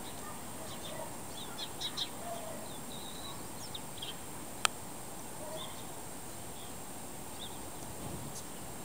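Small birds chirping on and off in short high calls, with one sharp click about halfway through.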